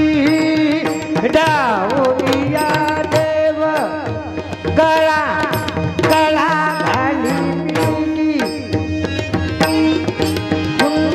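Bhajan singing: a wordless vocal improvisation with wide, gliding pitch runs over a steady held drone, with tabla strokes keeping time.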